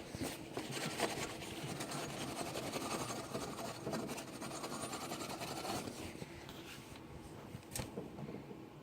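Paper towel rubbing and rustling by hand, with a few light clicks and taps, easing off in the last couple of seconds.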